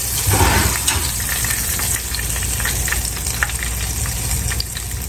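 Hot avocado oil sizzling in a frying pan with a steady run of small crackles and pops, a little louder briefly near the start.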